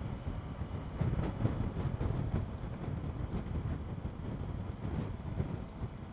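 Wind rushing and buffeting over the microphone of a motorcycle at road speed, with the bike's engine and road rumble running underneath in a steady low roar.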